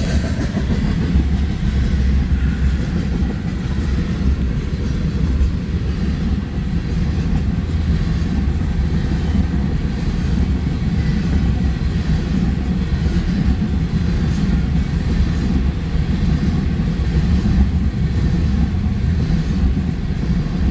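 Freight train of loaded ethanol tank cars rolling past, a steady low rumble of cars on the rails.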